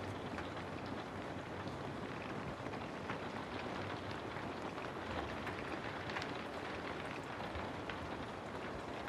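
Steady rain used as background white noise: an even hiss with many small drop ticks scattered through it.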